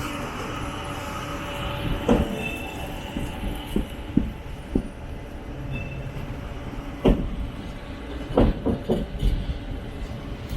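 Passenger train running along the track, heard from inside an AC 3-tier coach: a steady rumble with irregular sharp knocks and clacks from the wheels, several close together near the end.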